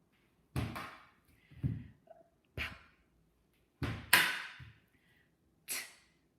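A series of about six sharp slaps and thumps at uneven intervals, like a hand slapping down on a tabletop, each dying away quickly.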